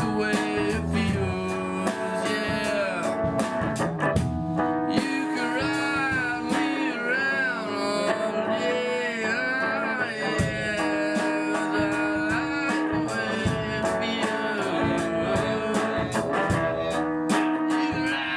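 Band music: guitar playing a bluesy line with bending notes over a steady drum beat.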